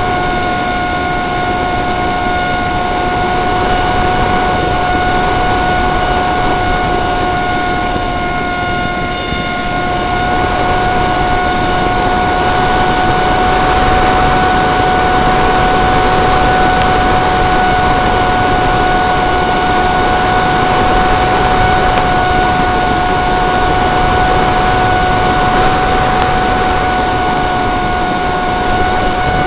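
Dynam Hawksky RC plane's brushless electric motor running with a steady, unchanging whine, half buried in heavy wind noise.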